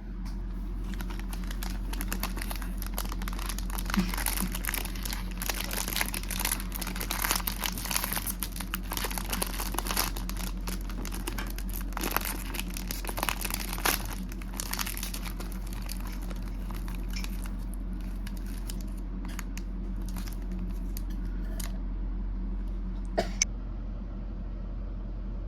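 Plastic snack wrapper crinkling and rustling as it is handled, dense and irregular for the first half and then thinning to a few sharp clicks near the end, over a steady low electrical hum.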